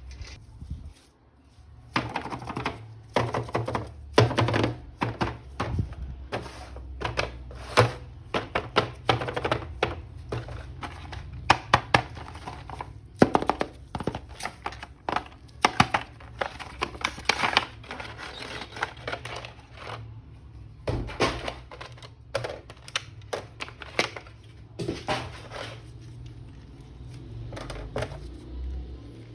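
Irregular sharp clicks and knocks of hard plastic being handled as an action figure toy is unboxed, coming in quick runs with short pauses, over a faint low hum.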